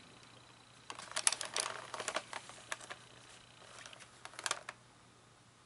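Small plastic parts of an animatronic figure being handled and fitted together: a quick run of clicks and taps about a second in, and a few more near the end.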